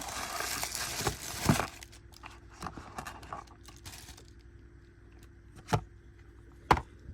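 Packaging crinkling and tearing as a subscription box is unpacked by hand, for about the first second and a half. Then come scattered light taps and two sharp knocks near the end.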